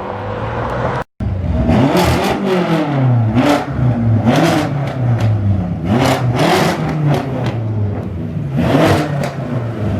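Car engine being revved repeatedly, its pitch climbing and dropping back about five times, with a loud rasping exhaust note at the top of each rev. The sound cuts out completely for a moment about a second in.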